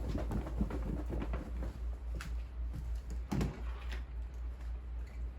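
Soft, irregular knocks and rustles of things being handled, with one sharper knock about three and a half seconds in, over a steady low hum.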